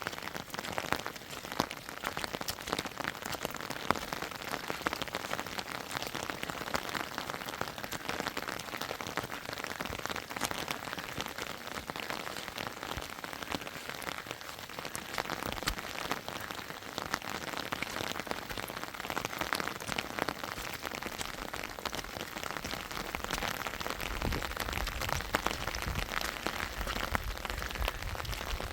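Steady rain, with many close drops striking a surface as fine sharp ticks over a dense hiss. A low rumble joins in near the end.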